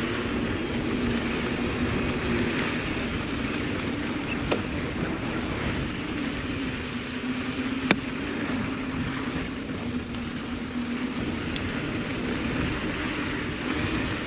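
Mountain bike being ridden on a dirt trail: a steady rolling rumble from the bike, with three sharp clicks or knocks spread through it.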